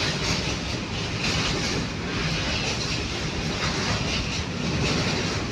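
Container freight train's wagons rolling past close by: steady wheel-on-rail rolling noise with repeated pulses as the wheelsets go by.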